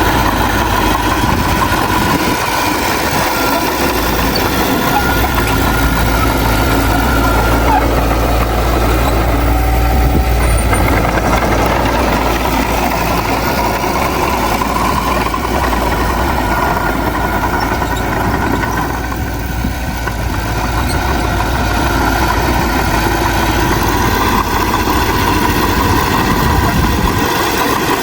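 Heavy diesel earthmoving machinery running steadily, with a brief dip in level about two-thirds of the way through.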